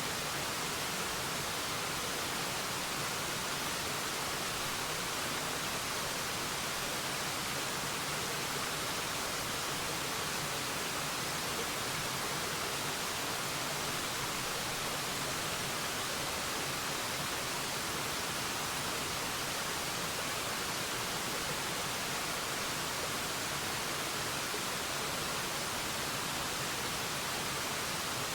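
Waterfall: a steady, even rush of falling water with a bright hiss that never changes.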